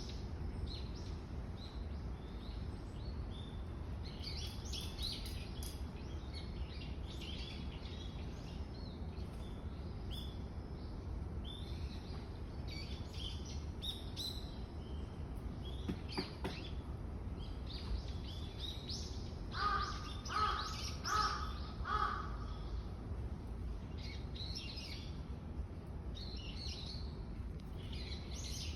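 Small birds chirping on and off, over a steady low rumble. About two-thirds of the way through, a crow caws four or five times in quick succession, the loudest sound here.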